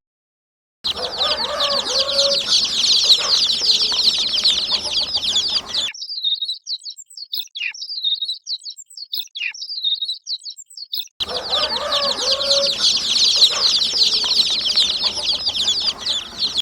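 Many domestic chicks peeping together in a dense, continuous chorus of quick high peeps. In the middle it thins to a quieter stretch of scattered single peeps, then the full chorus returns.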